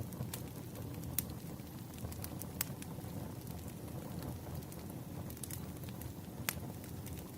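Wood fire crackling: a few sharp, irregular pops and snaps over a steady low rumble.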